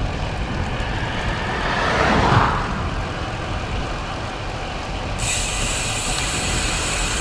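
Wind rushing over the microphone of a cyclist riding into a headwind, with a motor vehicle passing and swelling about two seconds in. A steady higher hiss comes in suddenly about five seconds in.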